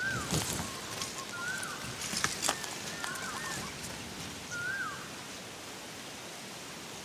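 Faint outdoor ambience in which a bird gives a short rising-then-falling whistled call four times over about five seconds, with a couple of sharp clicks about two and a half seconds in.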